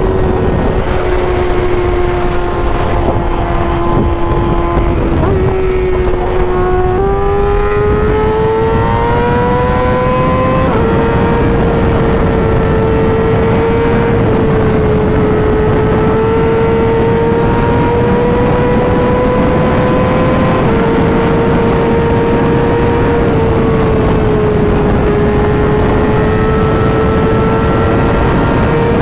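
A sport motorcycle's inline-four engine running at high revs on the highway, climbing slowly and dropping a little at each upshift, four times. Steady wind rush runs under it.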